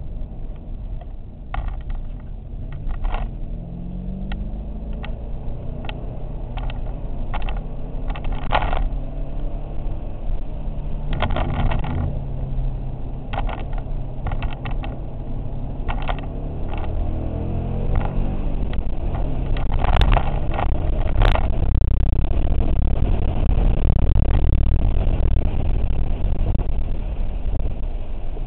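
Ford Mustang Bullitt's 4.6-litre V8, heard from inside the cabin, its pitch rising and falling as the car speeds up and slows. Short clicks and knocks come through the first half, two sharp clicks follow about twenty seconds in, and the engine is louder towards the end.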